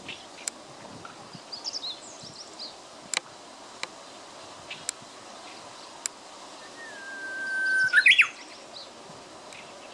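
Japanese bush warbler (uguisu) singing its song once, about seven seconds in: a long, steady whistled note that swells in loudness, then breaks into a quick rising flourish, the 'hoo-hokekyo' phrase. Before it come faint high chirps and a few sharp ticks.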